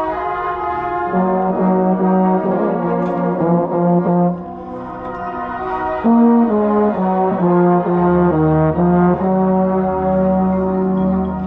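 Marching band brass playing held chords that move in steps, with a low brass line coming in about a second in. It gets louder about six seconds in, and a deep bass note joins near the end.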